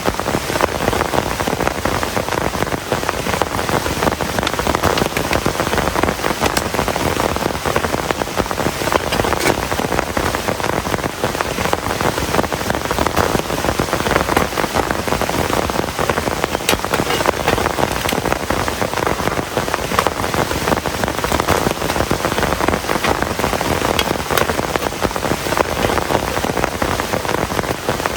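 Heavy rain falling steadily: a dense, even patter of countless drops, with no thunder standing out.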